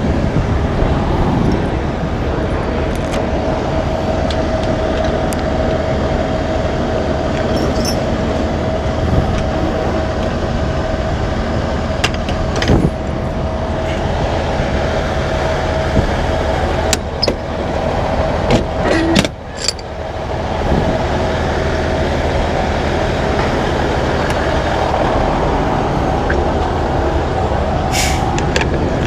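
Semi truck's diesel engine idling steadily with a steady whine on top, and a few sharp knocks or clicks here and there.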